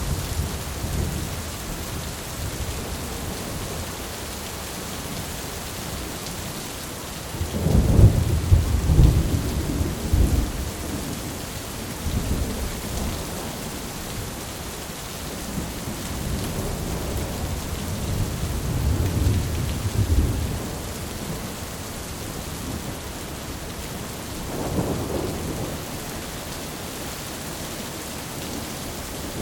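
Thunderstorm: steady rain hissing throughout, with thunder rumbling several times. The loudest, longest rumble comes about eight seconds in, followed by rolling rumbles and a shorter one near the end.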